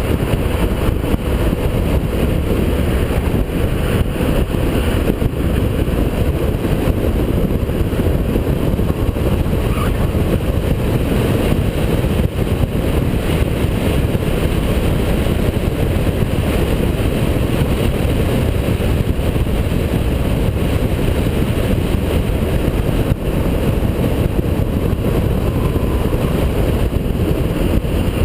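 Holden VP Commodore's 3.8-litre V6 engine running hard on a race track: a loud, steady low rumble with no distinct rev changes standing out.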